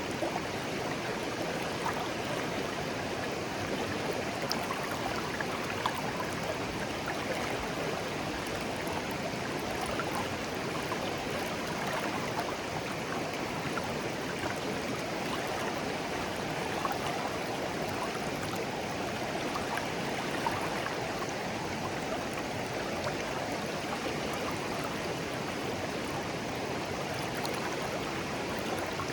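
Shallow clear stream flowing gently over stones: a steady babbling murmur of water with small splashes and trickles.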